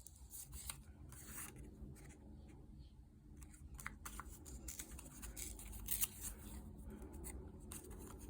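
Scraps of paper being handled and sorted through: light, irregular rustling and crinkling with small sharp clicks.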